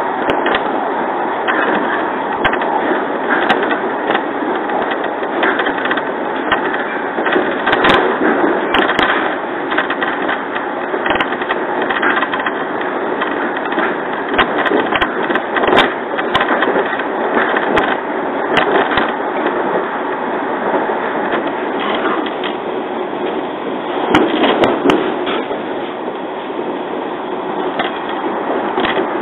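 Running noise of a JR 115 series electric train heard from inside the passenger car: a steady noise of wheels and motors on the rails, with sharp clicks now and then.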